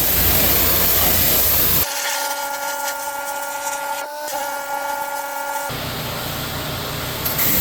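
Pressure-washing equipment working on concrete: a loud hissing spray over a running machine. For a few seconds in the middle it gives way to a quieter, steady whine, then the spray noise returns.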